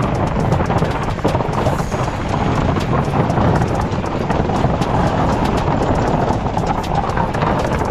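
KTM 390 Adventure's single-cylinder engine running while the bike rides rough off-road ground, under heavy wind noise, with a steady patter of sharp irregular clicks and knocks.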